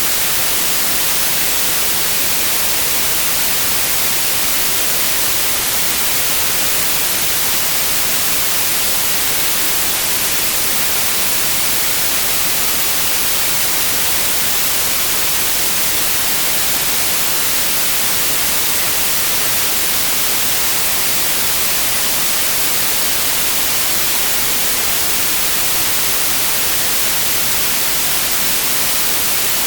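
Synthetic white noise: a steady, even hiss spread across all pitches, strongest in the highs, with no change throughout.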